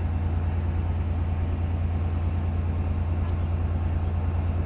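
EMD DM30AC diesel locomotive standing at the platform with its engine idling: a steady, even low hum.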